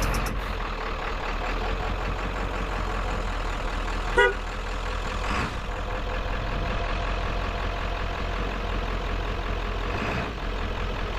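An engine idling steadily, with a brief high squeak about four seconds in.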